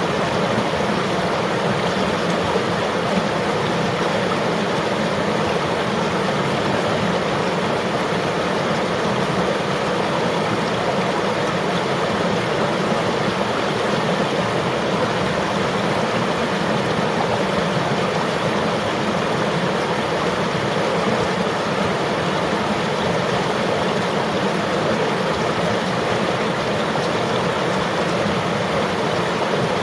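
River water flowing steadily: a continuous, even rush of moving water.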